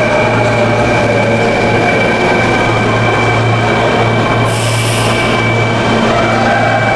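Electric commuter train moving through the station with a steady whine of several held tones, and a short high hiss about four and a half seconds in.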